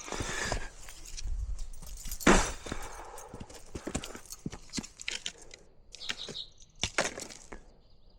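Irregular knocks and snaps of wood as firewood and kindling are handled and broken for a campfire, the loudest a sharp knock about two seconds in.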